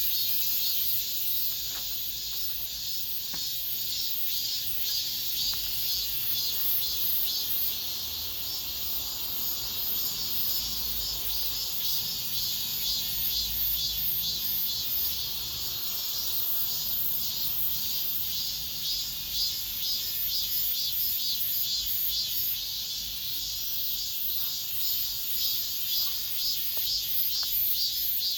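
Cicadas singing: a dense, steady high-pitched buzzing chorus with a fast pulsing throb.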